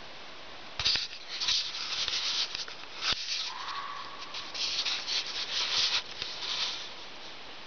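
Irregular scratchy rubbing noise right on the microphone, starting with a click about a second in, with another click about three seconds in. A faint short held tone is heard about halfway through.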